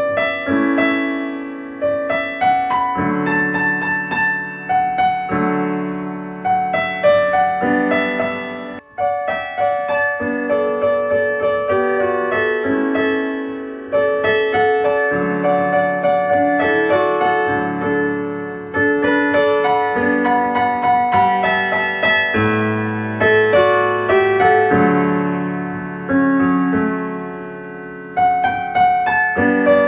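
Calm solo piano music: single notes and chords struck and left to ring and fade, over a lower accompanying line. There is a brief break about nine seconds in.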